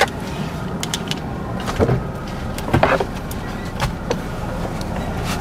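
A motor vehicle's engine running steadily at idle, with scattered short clicks and knocks over it.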